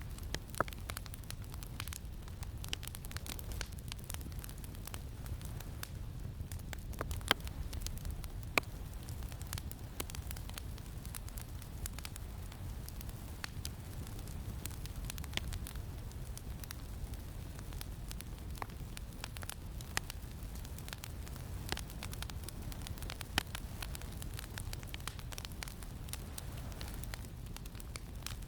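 Campfire crackling, with sharp pops scattered every few seconds, over a steady low wind rumble.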